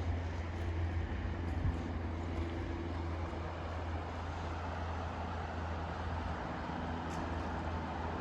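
Steady low rumble of distant road traffic under an even hiss of pink noise.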